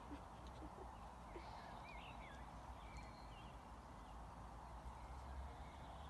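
Quiet outdoor background with a few faint, high bird chirps about two to three and a half seconds in.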